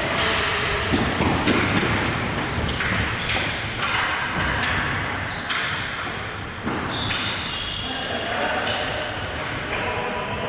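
Hockey game sounds in a rink: repeated knocks of sticks and the puck or ball, over a steady din, with short squeaks in the second half.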